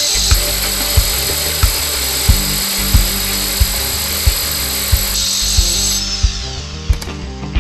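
Bosch GBH 5-38 X rotary hammer drill running under load, a dense steady drilling noise that stops about six seconds in. Background music with a steady kick-drum beat plays throughout.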